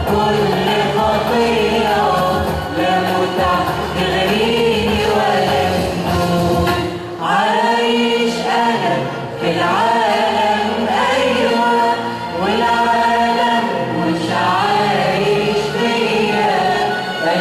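Choir singing an Arabic Christian hymn over a steady low accompaniment, with short breaks between phrases.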